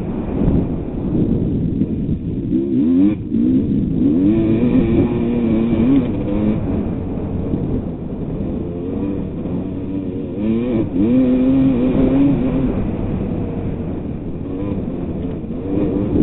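Two-stroke single-cylinder motocross bike engine (1988 Kawasaki KX250) being ridden hard. The pitch rises and falls several times as the throttle is opened and shut, over a constant low rumble.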